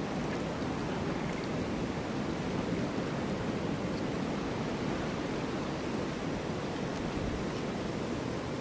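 Snowstorm wind blowing as a steady, even rush.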